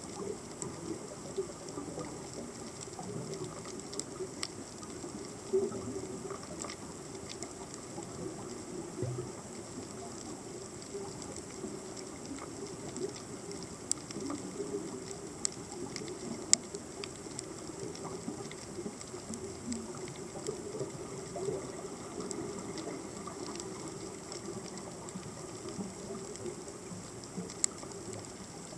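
Underwater ambience picked up by a submerged camera: a steady low rushing noise with a constant scatter of sharp clicks and pops, a few of them louder.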